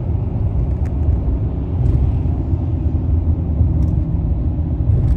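Nissan Titan pickup's V8 engine and exhaust running with a steady low rumble, heard from inside the cab while driving, mixed with road noise.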